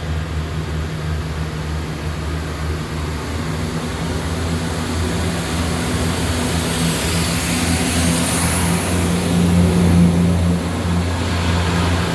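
A train pulling away from a station platform, its engines running with a steady low hum that grows louder, loudest about ten seconds in.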